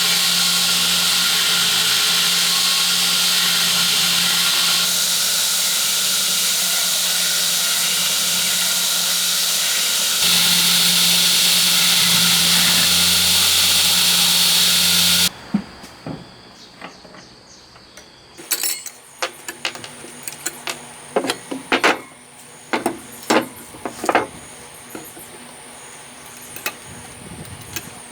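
A workshop machine runs with a loud, steady hiss and low hum, then stops about 15 seconds in. After that come a dozen or so scattered sharp knocks.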